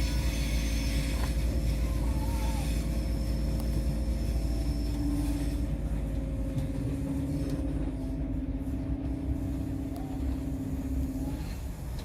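Passenger train running, heard from inside the carriage: a steady low rumble with a steady hum that cuts off near the end.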